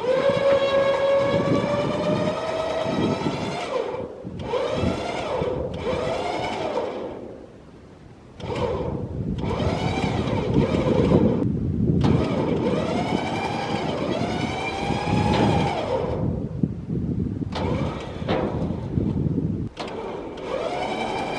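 Electric trailer winch motor, powered from a jump box, whining in bursts as it pulls a car up onto a trailer. Its pitch rises and falls with the load, and it stops briefly several times, with a longer pause about eight seconds in.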